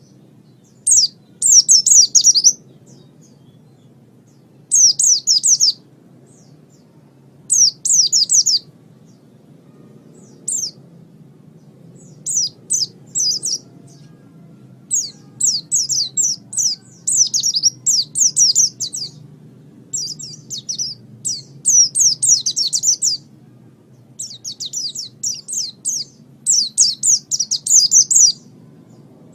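White-eye (pleci) singing: short, high-pitched phrases of rapid descending chirps, each lasting a second or two, separated by brief pauses that grow shorter and more frequent in the second half. A faint, steady low hum runs beneath.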